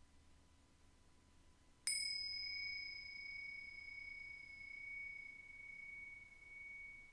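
A chime struck once about two seconds in. It rings one clear high tone with fainter higher overtones that fades slowly with a gentle waver and is still sounding at the end.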